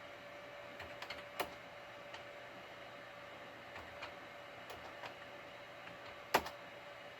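Scattered single key presses on a computer keyboard, about eight in all and spaced irregularly, with the sharpest one about six seconds in. They sit over a faint steady hum.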